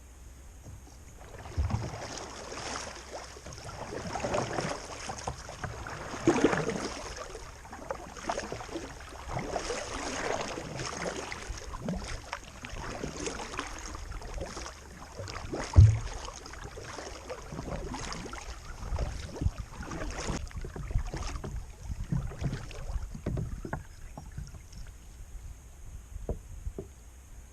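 Kayak paddle strokes splashing and dripping in the water at an irregular pace, a burst every second or two. A single sharp knock about halfway through is the loudest sound.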